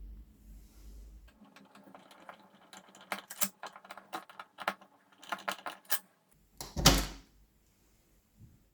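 Small hard clicks and rattles from a window handle and its fittings being turned and handled, coming in quick irregular runs from about two seconds in. A short whoosh follows near the end.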